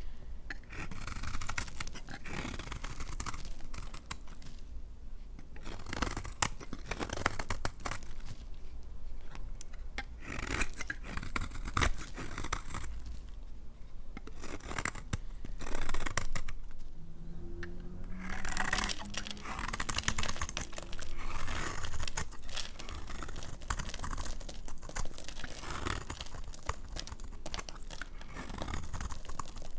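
Knife cutting through bars of dry laundry soap: a run of crisp crunching and scraping strokes with short pauses between them.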